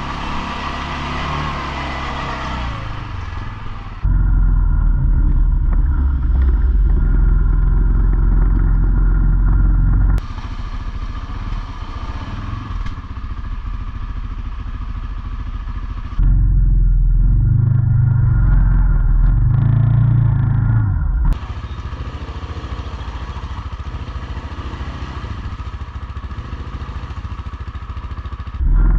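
ATV engines running during a trail ride, heard in several clips joined by abrupt cuts; some clips carry a much louder low rumble than others.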